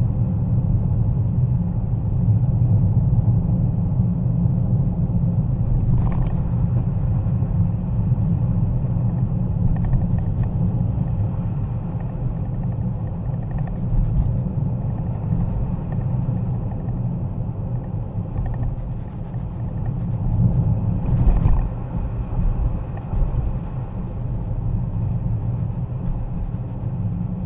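A car being driven, heard from inside the cabin: a steady low rumble of engine and tyres on the road. Two brief knocks sound, about 6 seconds in and again near 21 seconds.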